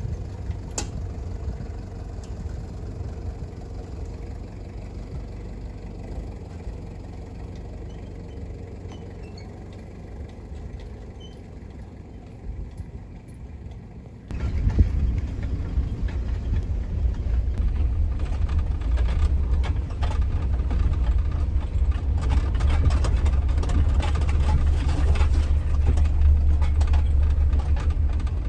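A dirt bike being ridden, heard as a heavy low rumble with wind buffeting on the microphone; about halfway through the sound jumps suddenly louder and stays that way.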